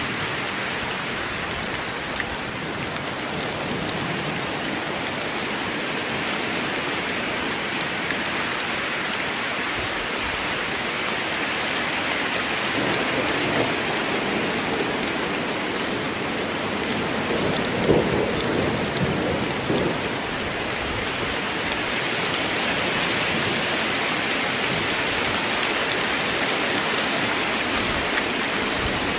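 Steady heavy rain falling in a forest, an even hiss of many drops. Through the middle it swells with a lower, fuller sound that peaks briefly a little after halfway.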